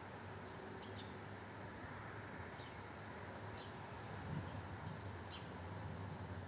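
Small birds giving brief, faint high chirps, five or six spread over a few seconds, over a steady low background rumble.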